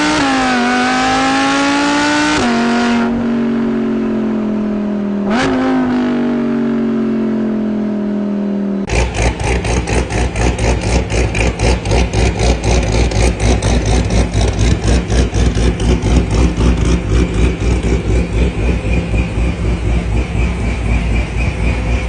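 Sports car engines revving: an engine rises and falls in pitch, with a quick blip about five seconds in. About nine seconds in it cuts abruptly to a deeper, rhythmic pulsing sound with heavy bass.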